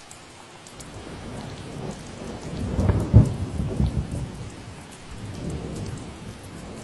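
Steady rain falling, with a low rumble of thunder that builds about a second in, peaks around three seconds and rolls away, swelling again briefly near the end.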